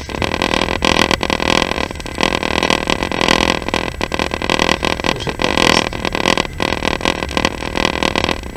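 Passenger train in motion: the loud, steady running noise of the moving carriage.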